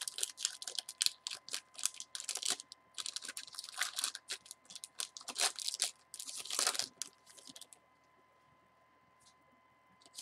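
A trading-card pack wrapper being torn open and crinkled: a run of irregular crackling rustles that stops about three-quarters of the way through. A faint steady high hum sits underneath.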